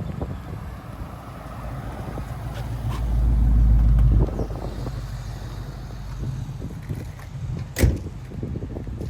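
Car engine running with a steady low rumble, louder for about a second a third of the way in, and a single sharp thump near the end.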